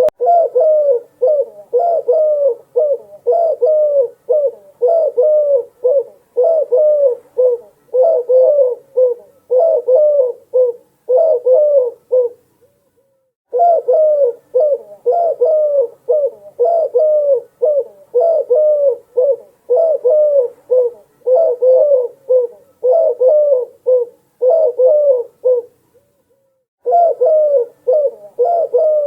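Doves cooing in a continuous run of quick repeated coos, about two a second, with two short breaks, about 13 s and 26 s in.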